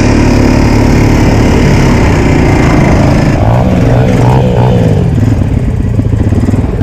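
Honda 350's engine running hard and steadily, then easing off about three seconds in, its pitch rising and falling unevenly for a second or two.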